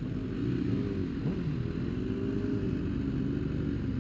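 Racing motorcycle engines running, their pitch rising and falling as the throttle is worked.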